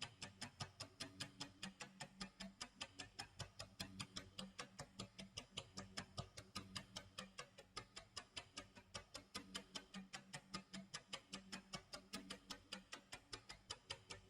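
Clock tick-tock sound effect: quiet, even ticks at a rapid, steady rate, with faint low tones underneath.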